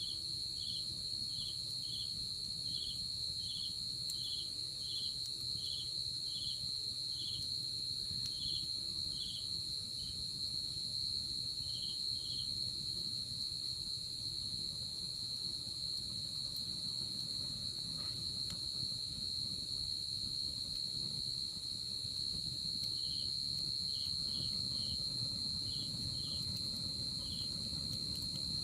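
Night insects chirping: one keeps up a continuous high, steady trill, while another gives short chirps about once or twice a second, stopping partway through and starting again near the end.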